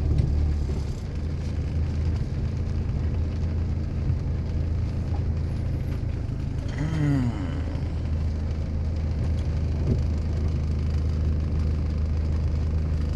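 Steady low drone of a car's engine and tyres heard from inside the cabin while driving. A short falling tone sounds about seven seconds in.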